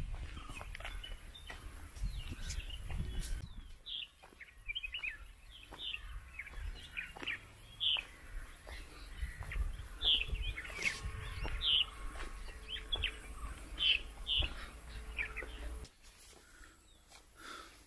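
Small birds chirping in many short, high calls, over a low steady rumble.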